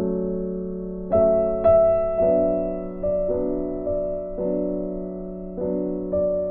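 Soft background piano music, slow sustained notes over a steady held low tone, with a brighter pair of notes about a second in.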